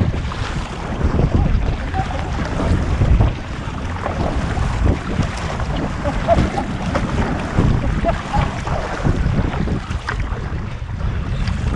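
Wind buffeting the microphone in uneven gusts, over sea water splashing and lapping around a kayak.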